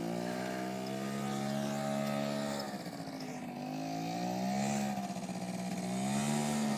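Quad bike engine running, its pitch rising and falling as the throttle is opened and eased off.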